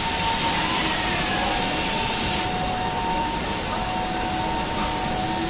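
Truck assembly-plant machinery noise: a steady hum with two steady tones and a hiss that drops away about two and a half seconds in.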